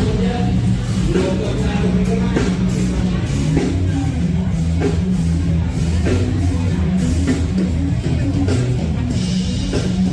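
Loud rock music with a drum kit keeping a steady beat over guitar and bass.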